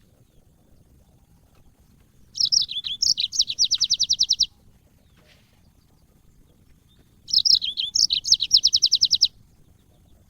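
Yellow-fronted canary (Mozambique canary) singing two short high-pitched phrases, a few seconds apart. Each opens with a few quick varied notes and ends in a fast trill of about ten repeated notes a second.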